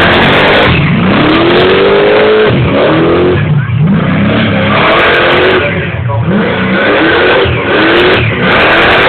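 A Camaro's engine revved hard during a burnout, its pitch climbing and dropping back over and over, loud, over a constant rush of noise.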